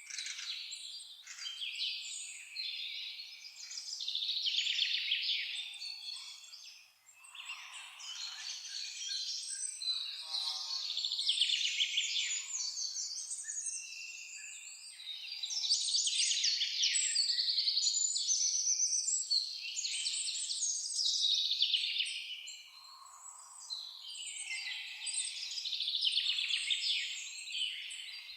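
Several songbirds singing at once, a dense, overlapping chorus of rapid trills and chirps that swells and dips but never stops.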